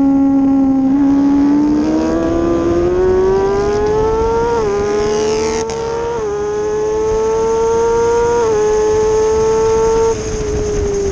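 Kawasaki ZX-6R 636 inline-four engine revving high under hard acceleration, its pitch climbing and dropping sharply at each of two quick upshifts, then the throttle easing off near the end, with wind rush underneath.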